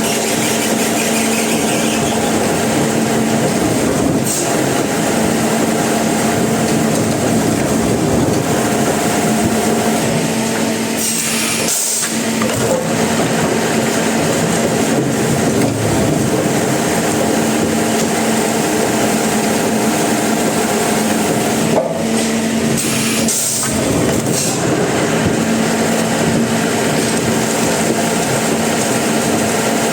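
Sawmill saw running steadily under a motor hum as it cuts wood, the sound briefly changing about twelve seconds in and again a little past twenty seconds.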